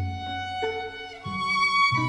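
Background music led by violin, playing held notes that change about every half second.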